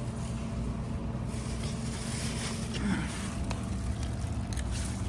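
A boat's motor running nearby as a steady low drone, with a held tone that shifts slightly about halfway through.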